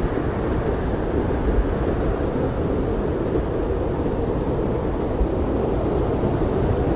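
Blizzard wind blowing steadily, a low, even rush with no gusts or other sounds standing out.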